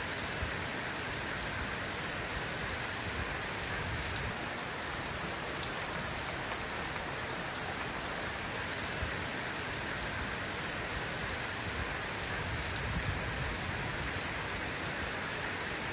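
Heavy rain pouring down steadily: a continuous, even downpour hiss with a low rumble underneath.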